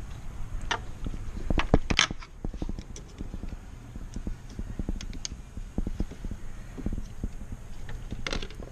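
Scattered clicks and knocks of hand tools and parts being handled during work on a car's heater hose connections, loudest about two seconds in and again near the end, over a low rumble.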